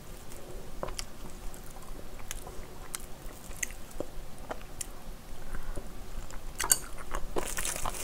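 Close-up eating sounds: wet clicks of chewing a mouthful of kimchi fried rice. Near the end comes the dry crinkling of a sheet of unroasted laver (gim) being folded around a scoop of rice.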